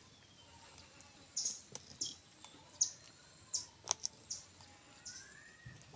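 A bird giving a quick series of short, high chirps, about eight in three seconds, over a steady high-pitched whine.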